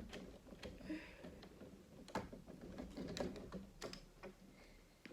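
Plastic Lego Technic parts being handled: irregular light clicks and small knocks, with a sharper click at the start and a few louder ones around two and three to four seconds in.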